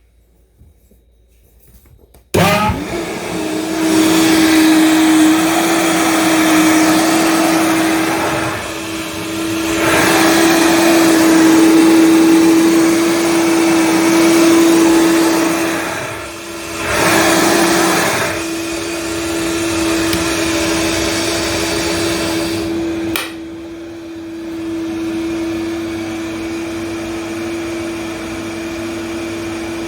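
Vitamix blender switched on about two seconds in, running at high speed with a steady whine that dips briefly a few times. About 23 seconds in there is a click, and the motor sound carries on noticeably quieter.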